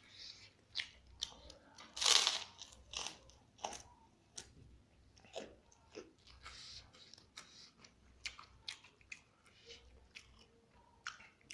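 Close-up eating sounds of telur geprek (smashed fried egg) with rice: irregular crunches and chewing, with one louder crunch about two seconds in.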